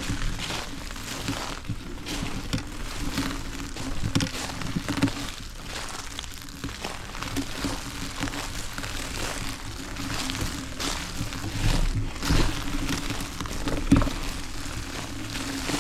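Riding a folding e-bike over a sandy, rough trail: a steady low hum under irregular crackling and crunching, with scattered louder knocks.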